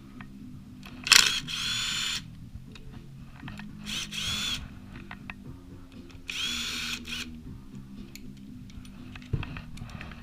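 Electric power drill/driver running in three short bursts, its motor whine rising in pitch as it spins up each time, as it backs out the engine's clutch cover bolts. A sharp clack comes about a second in, with a lighter knock near the end.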